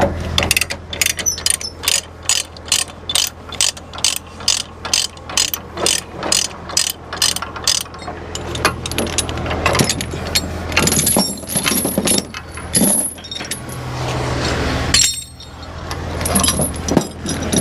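Ratchet chain binder being cranked, its pawl clicking at about three a second for the first eight seconds, then looser metal clanks and rattles, over the low steady hum of a diesel truck idling.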